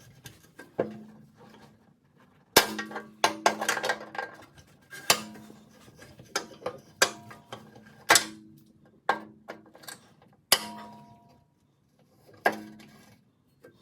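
Hammer blows on steel, about fifteen sharp strikes at an uneven pace, each ringing briefly, while working a broken bolt out of a mower deck.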